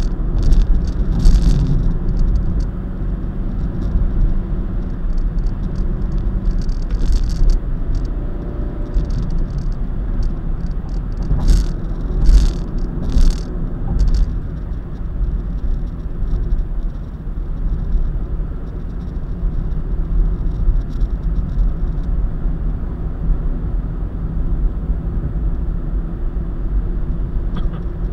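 A car driving at highway speed: steady low road and engine rumble, with a few short rattling crackles about a dozen seconds in.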